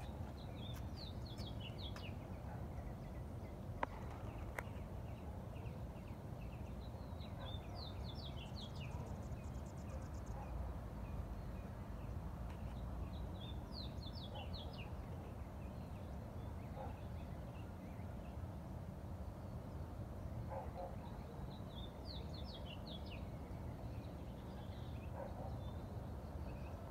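A small songbird singing a short phrase of quick high notes four times, about every six or seven seconds, over a steady low outdoor rumble.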